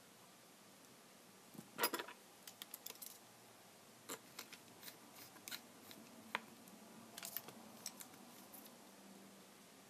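Scattered small clicks and taps of a tablet's plastic parts and small repair tools being handled, with a sharp cluster about two seconds in and lighter irregular clicks after.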